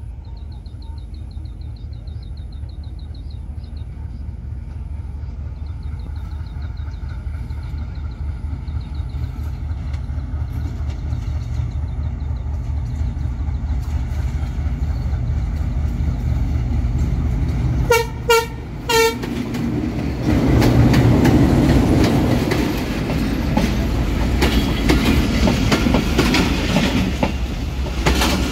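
Bangladesh Railway diesel locomotive approaching with a low engine rumble that grows steadily louder. It sounds a few short horn toots about eighteen seconds in. It then runs close past, with the passenger coaches rolling by on the rails much louder.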